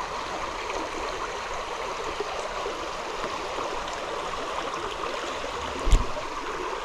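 Small trout creek running over rocks in a steady rush. A single thump sounds about six seconds in.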